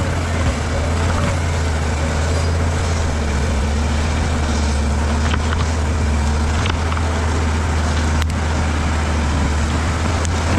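Bulldozer's diesel engine running steadily, with a few short clicks along the way.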